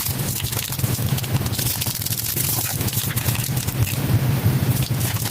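Slime being squeezed and pulled by hand, giving a dense run of small crackles and pops over a steady low hum.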